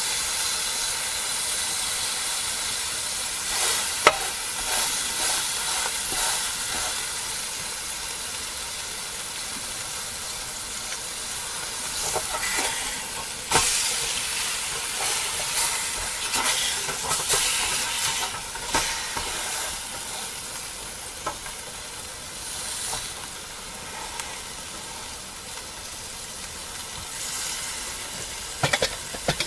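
A meat patty sizzling steadily in a small stainless steel pot on a camp stove, the hiss easing off somewhat in the second half. A few sharp clicks and scrapes come from the spatula against the pan, the loudest about four seconds in and again near fourteen seconds.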